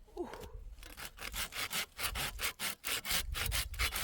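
Hand saw cutting through wood in rapid, even back-and-forth strokes, growing louder about a second in.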